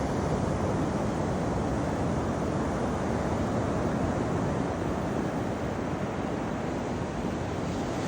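Steady rushing of ocean surf along the beach, mixed with wind buffeting the microphone.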